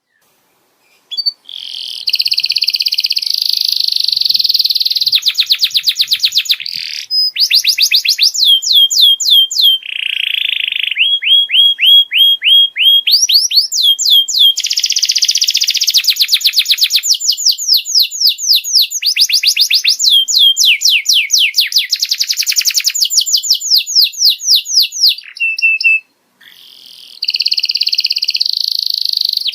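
Domestic canary singing loudly in long runs of fast repeated notes and trills, with short breaks about a second in and near the end.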